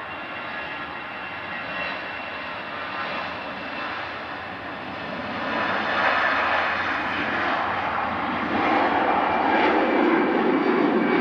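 Jet airliner engines running, their noise growing louder partway through as the aircraft gets closer, with a faint high whine over the noise.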